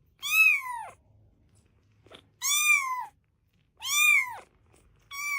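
A cat meowing four times, each a drawn-out call that rises and then falls in pitch.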